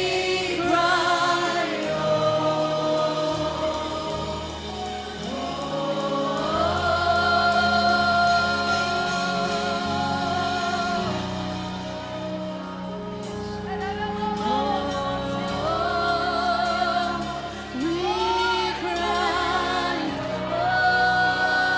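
Gospel worship music: voices singing long, wavering held notes over a sustained instrumental accompaniment, with one note held for several seconds in the middle.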